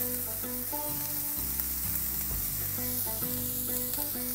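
Chopped onion and red and green bell pepper sizzling as they sauté in hot oil in a nonstick frying pan, stirred with a spatula. Soft background music with held notes plays underneath.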